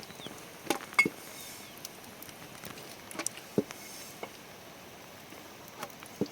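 Irregular light knocks and clicks, about eight scattered through, the sharpest about a second in and near the middle, over a faint steady hiss.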